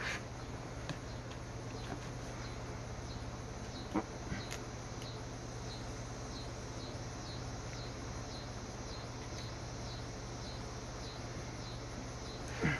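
A cricket chirping in a steady rhythm, about two short chirps a second, over a steady low hum, with a sharp click about four seconds in.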